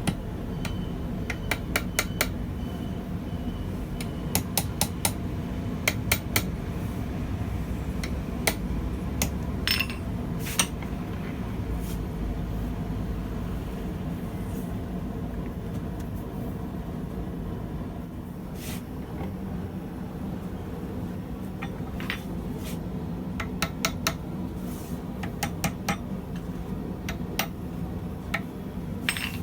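Hammer blows on steel tongs at the anvil, tapping the jaws open, in short groups of a few ringing strikes with pauses between, over a steady low rumble.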